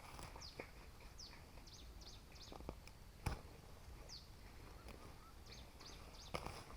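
Faint bird chirps: short, high, falling notes repeated every second or so. A few scattered knocks sound alongside, the loudest about three seconds in.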